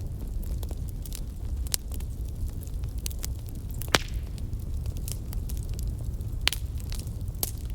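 Wood fire crackling in a fireplace: scattered sharp pops and snaps over a steady low rumble of the burning, with the loudest pops about four seconds in and again near six and a half seconds.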